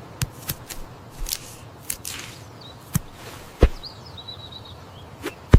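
A dozen or so irregular sharp taps over a steady hiss, the loudest near the end, with a faint high wavering chirp about two-thirds of the way through.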